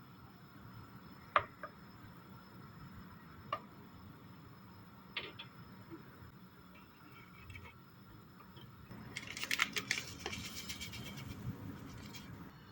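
Kitchen handling sounds: a few light, sharp clicks and knocks, then about nine seconds in a few seconds of dense crackling rustle.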